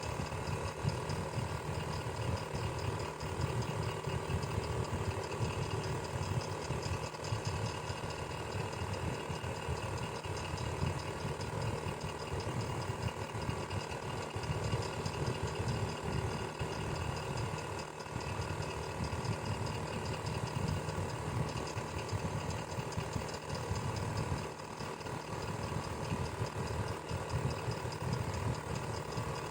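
Electric fan running steadily: a constant motor hum with a steady whirring tone above it, unchanging throughout.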